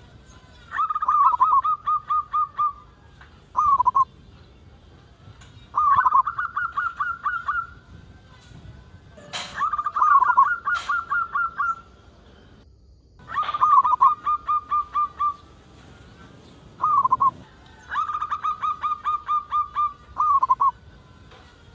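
Zebra dove (perkutut) cooing: repeated phrases of rapid, stuttering coos, each one to three seconds long and coming every few seconds, some led by a short single note. Two sharp clicks come near the middle.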